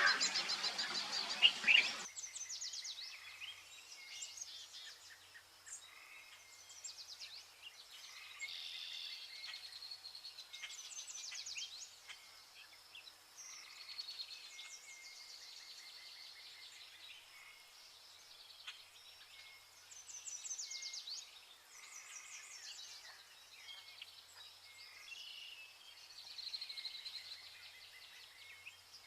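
Vernal hanging parrots calling with many short, high-pitched chirps and quick trills, repeated on and off. A louder, harsher burst of sound fills the first two seconds.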